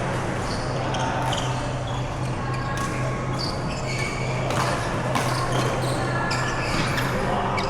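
Badminton rally on an indoor court: rackets striking the shuttlecock and shoes squeaking on the court floor, over a steady hum.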